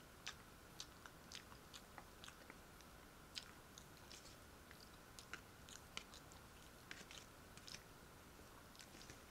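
A person chewing food close to the microphone: irregular soft wet clicks and smacks, a few every second, over a faint steady hiss.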